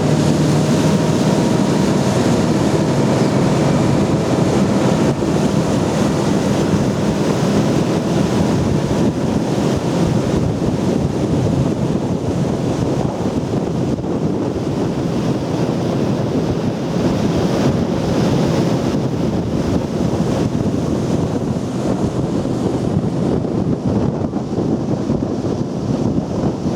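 Wind rushing over the microphone on a moving river boat, with a steady wash of water. The boat's engine runs faintly underneath for the first several seconds.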